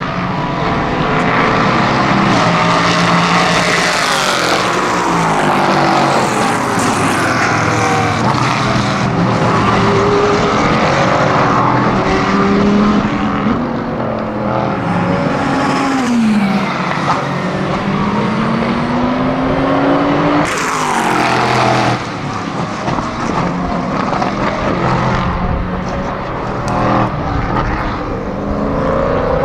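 LMP3 prototype race cars' naturally aspirated 5-litre V8 engines at racing speed, pitch rising and falling repeatedly as they accelerate, change gear and pass, with more than one engine heard at times.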